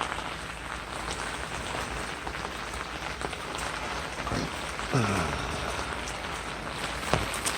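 Steady rain falling, mixed with water welling out of a drain pop-up emitter, as an even hiss. About five seconds in there is a brief tone falling in pitch, and a sharp click comes near the end.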